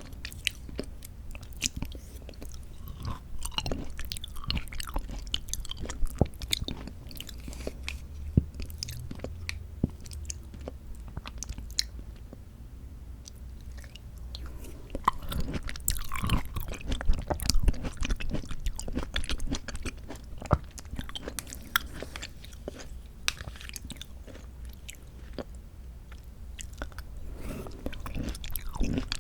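Close-miked chewing and biting of canned mandarin orange segments from a fruit cup, with many irregular small clicks and smacks of the mouth. It eases off for a couple of seconds about halfway through.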